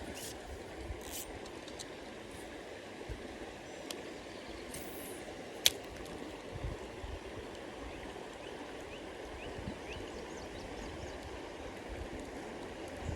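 River water flowing steadily, with a few light knocks and one sharp click a little before halfway through.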